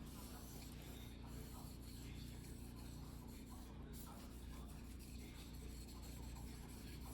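A single-bevel fugu-hiki sashimi knife rubbed by hand on a whetstone: faint, steady scraping.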